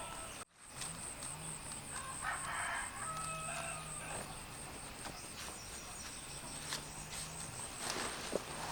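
A rooster crows about two seconds in, among clucking chickens, over a steady, faintly pulsing high-pitched tone.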